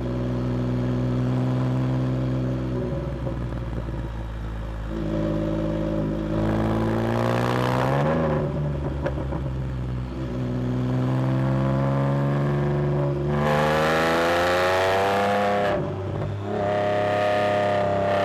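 Can-Am Spyder F3-S's 1330 cc Rotax three-cylinder engine, with a cat-delete exhaust, running hard under load. Twice its pitch climbs steadily as the revs build, and each climb ends in a sudden drop as the revs fall.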